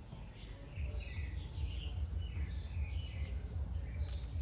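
Several birds chirping and calling from the garden trees in overlapping short notes, over a low rumble that grows louder about a second in.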